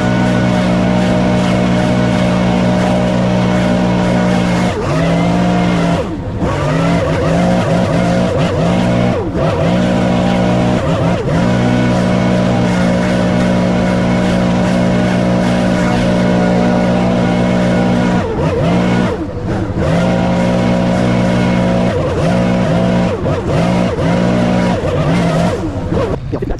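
Mini skid steer engine running at high revs while driving a stump grinder attachment, its pitch sagging briefly several times and recovering as the grinder takes load.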